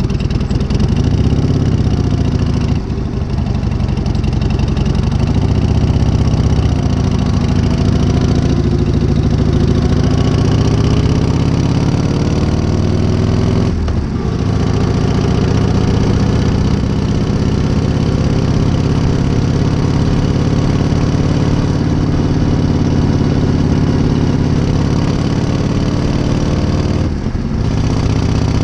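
1978 Harley-Davidson Shovelhead V-twin running on a new S&S carburettor, with the revs rising and falling a few times. Near the middle the revs climb slowly for several seconds, then drop back and hold steady.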